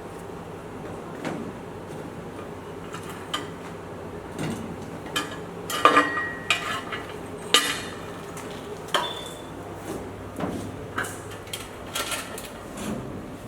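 Metal objects clinking and clanking: irregular knocks and rattles, with a few ringing metallic strikes around the middle, over a steady low hum.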